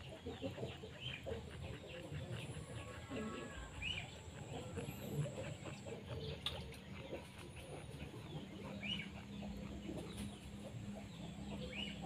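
Faint bird calls: short chirps and clucks every couple of seconds, over a thin steady high-pitched tone.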